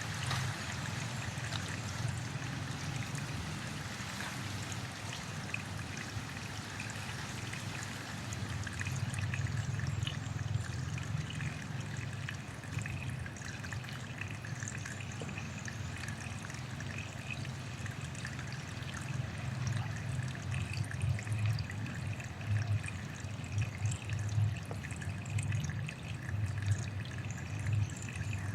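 Footsteps crunching through dry leaves, with wind gusting on the microphone as a low, uneven rumble.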